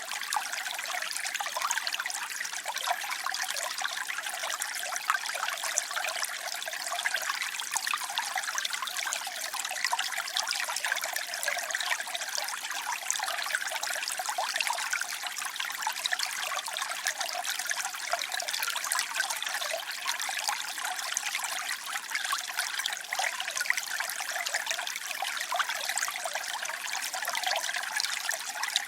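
Water trickling and splashing steadily, a continuous bright babble with many small splashes and no lulls.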